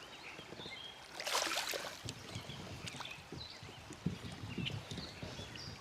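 Water splashing and lapping around a kayak, with a louder splash about a second and a half in. Light knocks and clicks against the hull follow.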